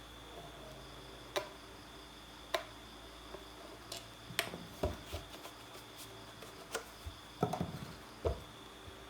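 Irregular light clicks and knocks of small hard objects being handled, a handful spread apart and then a quick cluster about seven and a half seconds in, over a faint steady high-pitched hum.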